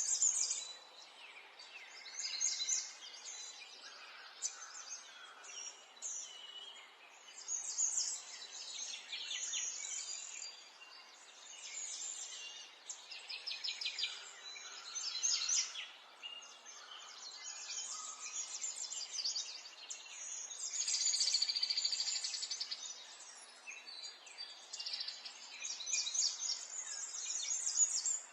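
Small songbirds chirping and singing one after another, short calls and fast trills, over a steady background hiss. The loudest and longest trill comes about three quarters of the way through.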